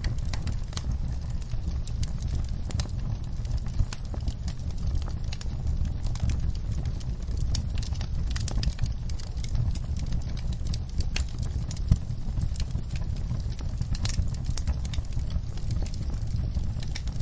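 Wood fire burning, with a steady low rumble and frequent sharp crackles and pops; one louder pop about twelve seconds in.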